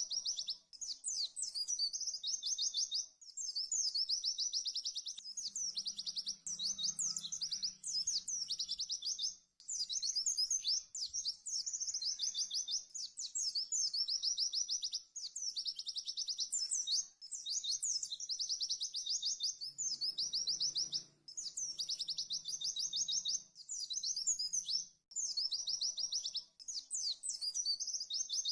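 A pleci (white-eye) singing fast, high rapid-fire trills, the 'tembakan' style, in phrases of two to three seconds broken by short pauses.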